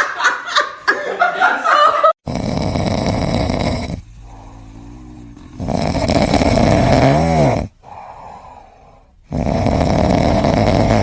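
A pet snoring loudly: three long snores a few seconds apart, with quieter breathing between them. Laughter is heard in the first two seconds.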